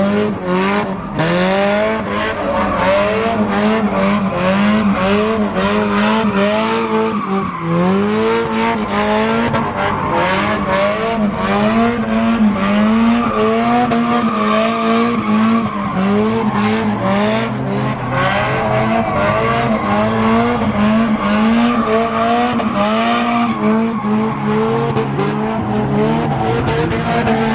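A car engine held at high revs with its pitch swinging up and down about once a second, while the tires spin and squeal continuously.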